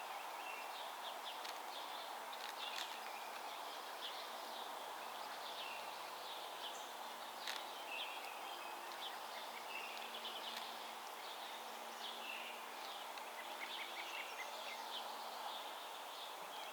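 Outdoor ambience of several small birds chirping and singing in short, scattered calls over a steady background hiss.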